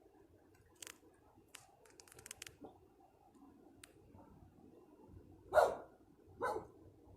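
A dog barking twice, two short barks about a second apart in the second half, after a few faint clicks.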